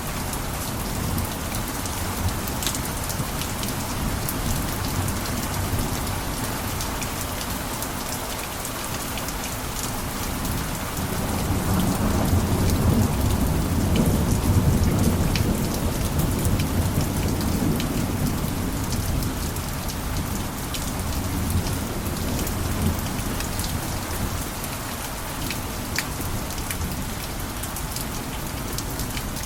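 Steady heavy rain with sharp scattered drop ticks. Partway through, a low rumble swells for several seconds and then fades back into the rain.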